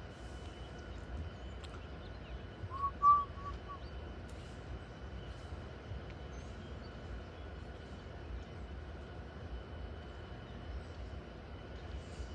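Quiet outdoor ambience with a low rumble and a faint steady high tone. About three seconds in comes a short whistled call of three or four quick notes. No train is heard yet.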